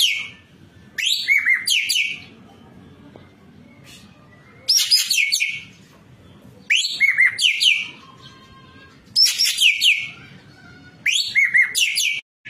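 Ekek keling bird singing: short bursts of rapid, shrill, sweeping notes, each about a second long, repeated every two seconds or so, six bursts in all.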